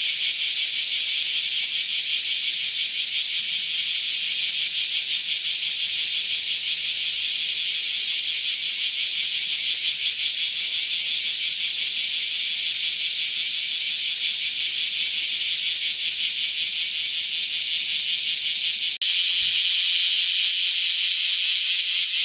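Cicada song: a steady, shrill high buzz made of very rapid pulses, changing abruptly near the end to a similar buzz.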